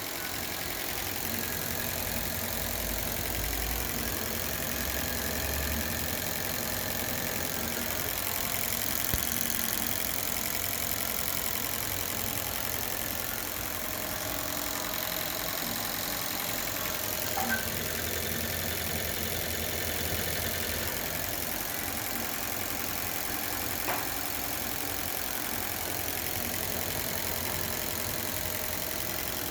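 Ford Ka 1.3 four-cylinder engine idling steadily, running on its repaired EEC V engine control unit as a test. Two brief clicks come near the middle, about six seconds apart.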